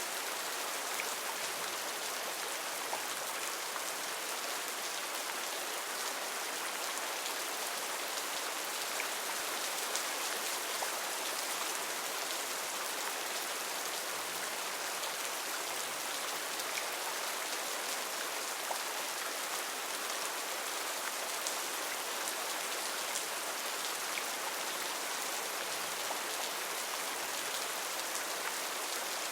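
Heavy rain falling steadily, an even hiss of rain with many small drop ticks on leaves and surfaces.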